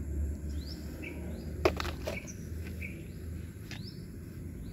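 Small birds chirping in short, quick rising notes over a steady low background rumble, with a sharp click about a second and a half in and a couple of fainter ones later.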